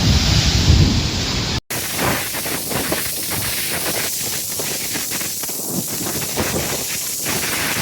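Cyclone storm noise: wind buffeting the microphone with a low rumble, then, after a sudden cut, a steady hiss of wind and driving rain with many small crackles.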